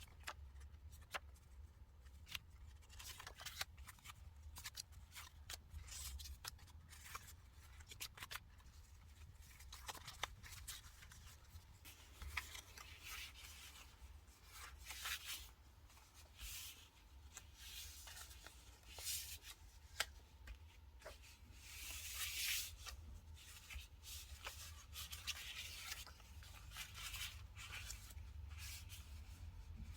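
Scissors snipping and paper and stickers being handled on a desk: scattered small clicks and short rustles over a steady low hum.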